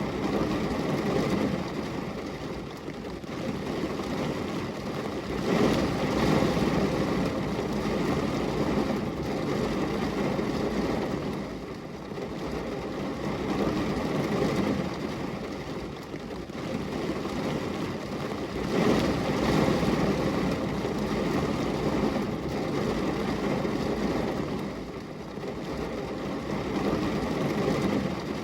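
Steady rushing rain on a glass window, a dense even patter that swells louder twice and eases again.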